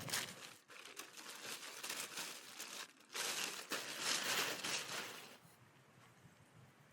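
Crinkling, rustling handling noise in uneven bursts, loudest from about three to five seconds in, then dying away to quiet.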